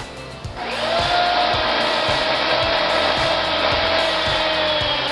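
A motor-driven saw, most likely a chainsaw, running at a steady whine that sags slowly in pitch as it cuts wood. It starts about half a second in, over background music with a steady beat.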